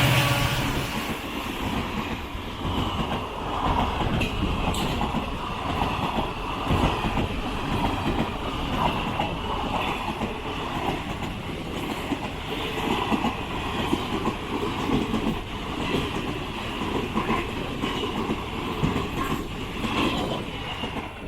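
Passenger train coaches running along the track: a steady rumble of wheels on rail with occasional clicks over rail joints.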